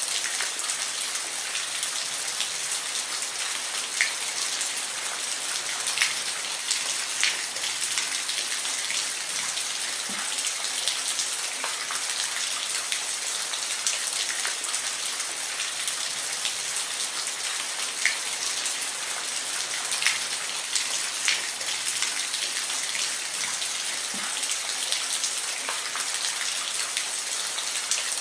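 Steady rain falling, a constant even hiss with individual louder drop hits every second or two.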